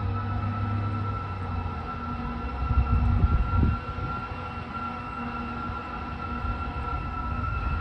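Fire apparatus air horn sounding a long, steady held blast over the low rumble of the rig's diesel engine, which swells briefly about three seconds in.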